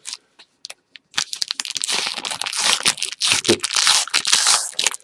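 Foil wrapper of a trading-card pack being torn open and crinkled by hand, a dense crackling that starts about a second in and goes on.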